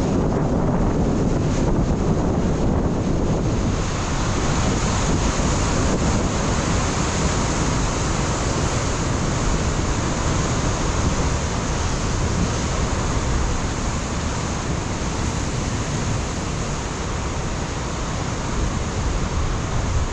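Ocean surf breaking and washing over a rocky shoreline, a steady rushing roar, with wind buffeting the microphone in the first few seconds.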